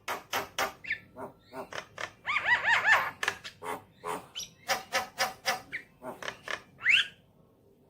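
Javan myna singing: a fast string of harsh clicks and rasping chatter, with a run of arched whistled notes about two and a half seconds in and a rising call near the end, after which it stops.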